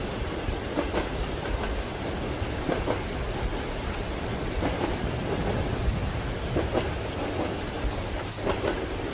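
Steady rain mixed with the low rumble of a moving train and the soft clack of its wheels over rail joints, coming every second or two.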